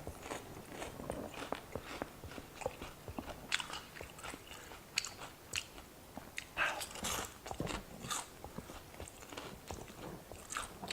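Someone chewing fried shrimp tempura: irregular crisp crunches and wet mouth sounds, with a few louder bites partway through.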